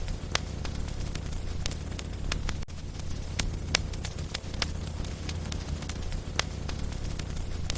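Wood logs burning in a fireplace, crackling with irregular sharp pops of varied loudness over a low, steady rumble.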